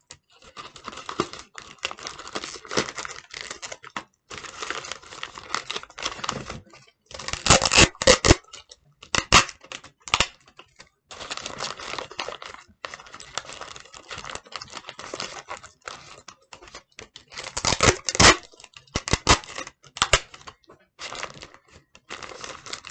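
Tape pulled off a roll and torn, with paper crinkling as it is wrapped and pressed into a ball. Irregular rasps and crackles, with the loudest rips about eight seconds in and again about eighteen seconds in.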